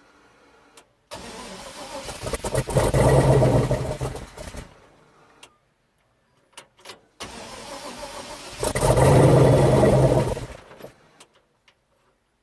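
Swapped-in 6.0-litre V8 in an S10 pickup, tried twice on its first start. Each time the starter cranks for about a second and a half, the engine fires and runs loud for about two seconds, then dies out.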